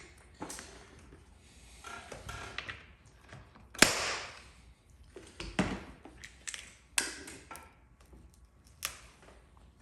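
Irregular clicks, taps and knocks of hand tools being worked, with one sharp crack about four seconds in that is the loudest.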